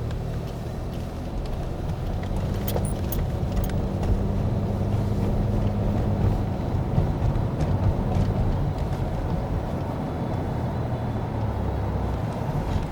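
A car running, a steady low rumble with a few faint clicks.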